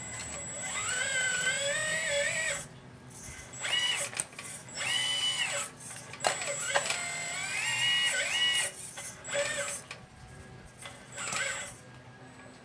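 Small electric motors of a 1/12-scale RC Liebherr 954 excavator whining in short spells of half a second to two seconds, the pitch rising and falling as the machine moves, with a couple of sharp clicks near the middle.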